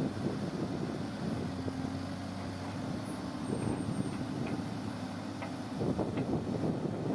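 Heavy construction machine's engine running, with a steady droning tone that sets in about a second in and stops near the six-second mark.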